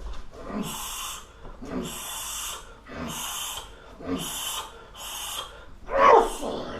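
A Muay Thai fighter's sharp, hissing exhalations with each strike on the heavy bag, about one a second. The loudest comes about six seconds in.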